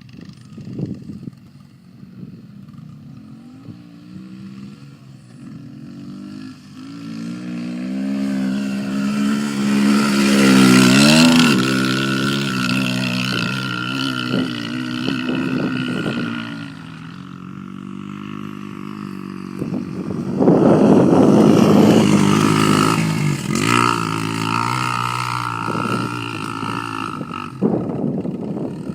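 Dirt bike engines revving: one bike winds up with rising pitch to a loud peak about ten seconds in, then another loud surge of revving comes about twenty seconds in, with engines running more steadily in between.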